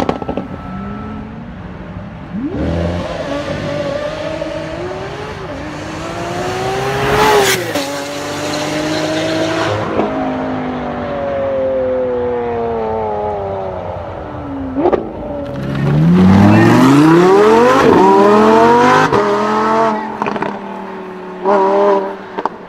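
Lamborghini engine revving hard under acceleration. Its note climbs and then drops sharply at each upshift, falls away slowly for a few seconds, then climbs steeply in a loud full-throttle pull. Short sharp revs come near the end.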